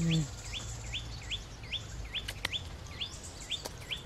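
A bird calling over and over, a short rising note about three times a second. Just after the start a low, steady closed-mouth 'mmm' from the woman eating ends.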